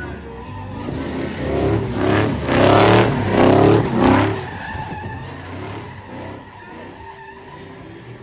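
Pickup truck doing donuts and a burnout, its tires squealing with a wavering pitch over the engine running hard. It is loudest from about two to four seconds in, then settles to a lower, steady noise.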